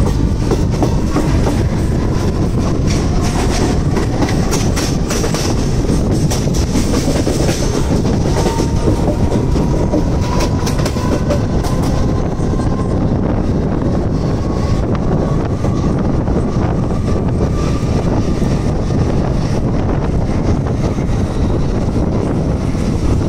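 Mumbai suburban electric local train running, heard from its open doorway: a steady rumble of wheels on rail, with rapid clicks as the wheels cross points and rail joints, thickest in the first half. A faint whine rises slowly in pitch through the middle as the train gathers speed.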